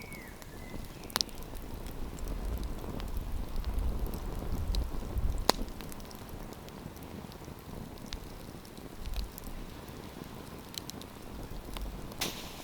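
Wood campfire burning: a steady fine crackle and hiss, with a few sharp pops, the loudest about five and a half seconds in and one near the end. A low rumble runs under it in the first half.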